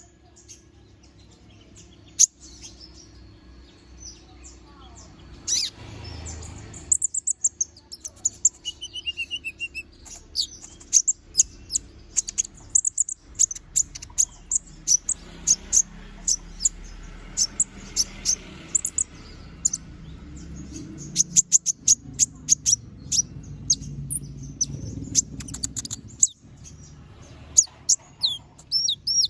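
Kolibri ninja sunbird singing: rapid runs of sharp, high-pitched chirps and trills in bursts, over a faint steady low hum.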